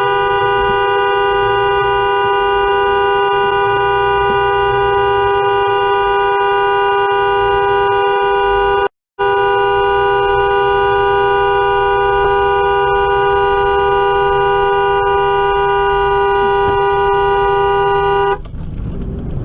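A two-tone car horn held down in a long, loud, unbroken blast, let off for a split second about halfway through and then held again before cutting off suddenly near the end, leaving engine and road noise.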